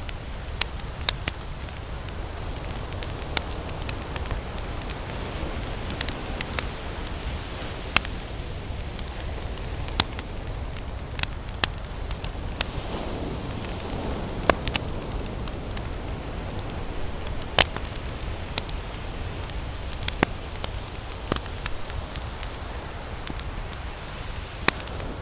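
Campfire crackling: sharp, irregular pops and snaps from the burning wood over a steady low rush.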